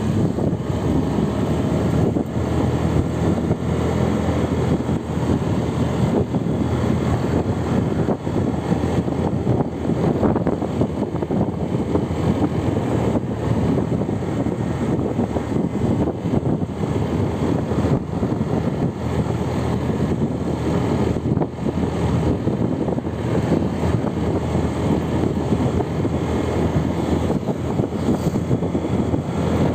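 Steady rumble of a moving vehicle on the road: engine and tyre noise.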